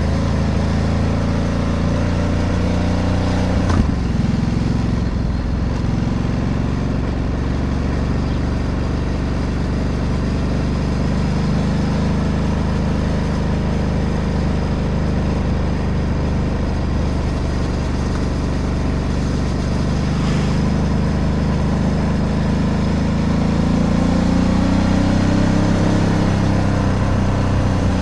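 Ducati DesertX Rally's 937 cc V-twin engine running steadily under way, with a single sharp knock about four seconds in. Near the end the engine pitch rises as the bike accelerates.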